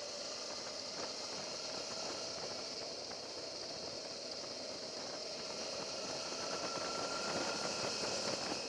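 Suzuki V-Strom motorcycle engine running at a steady pitch under a steady hiss, getting a little louder near the end.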